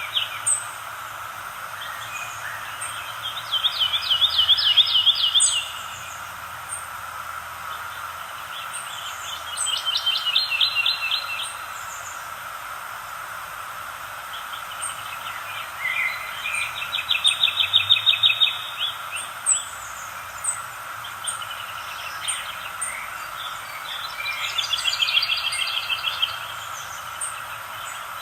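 Birdsong: one bird repeating a fast trilled phrase of about two seconds, four times, every six or seven seconds, with faint high chirps from other birds over a steady background hiss.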